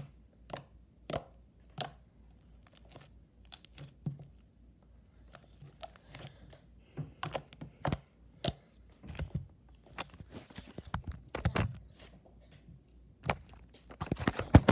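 Hands squeezing and stretching slime, making irregular wet clicks and pops that come thicker and louder in the second half.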